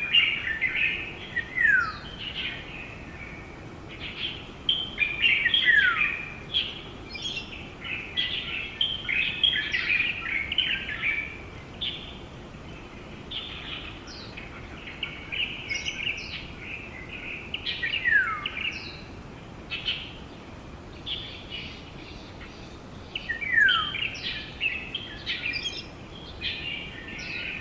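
A mixed chorus of small wild songbirds chirping and calling busily, with a quick downward-slurred call heard four times among the chirps.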